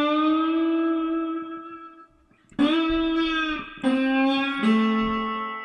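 Slide guitar played slowly: one long note slid up into pitch and held for about two seconds, then three notes stepping down in pitch, each left to ring.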